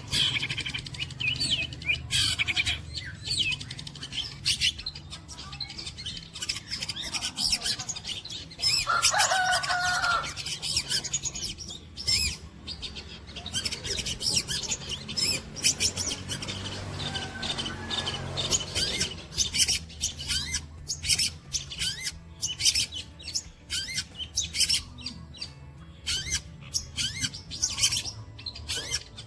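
Long-tailed shrike (cendet) singing a rapid, chattering 'tembakan' song of quick high chirps and trills, with mimicked calls of other birds such as the pied triller (walang kecek) woven in.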